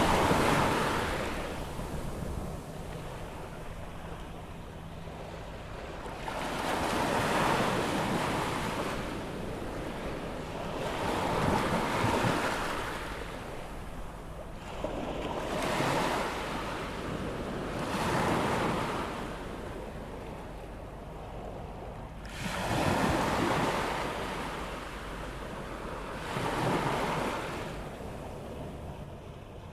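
Ocean waves breaking and washing up the shore as the tide comes in, each wave swelling and fading every few seconds, with some wind on the microphone.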